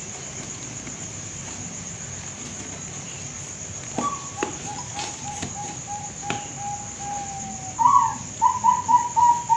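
Zebra dove (Bangkok-type perkutut) cooing: a quick run of short coos starts about four seconds in, then a louder note and a string of rolling coos near the end. A steady high-pitched whine runs underneath, with a few sharp clicks during the first coos.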